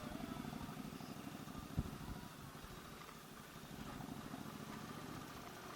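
Yamaha V Star's V-twin engine running faintly with a rapid, even pulse, and one sharp click about two seconds in.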